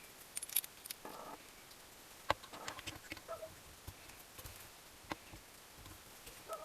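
Scattered light clicks, clinks and taps of small metal parts and tools being handled on a workbench, with the sharpest knock about two seconds in.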